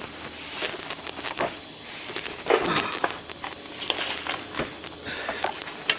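Scattered light clicks and knocks, with a short scrape about two and a half seconds in, from parts being handled as a truck's A/C condenser is taken down.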